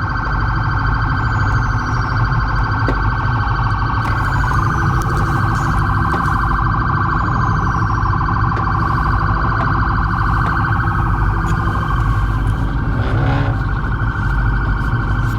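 Police siren sounding continuously with a fast warble, over a low engine rumble.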